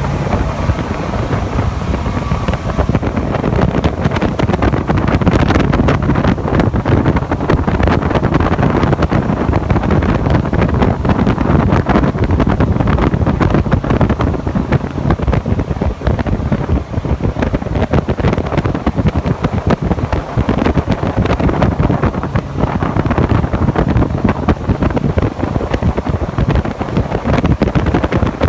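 Jet boat running at speed, with wind buffeting the microphone throughout.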